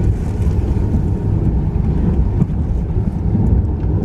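Steady low rumble of a moving sleeper-train carriage, heard from inside the coach.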